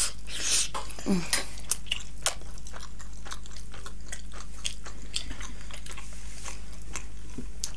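Close-miked biting and wet chewing of a large juicy buffalo momo. A loud wet bite comes right at the start, then a steady run of small sharp mouth clicks and smacks, the chewing of food still hot.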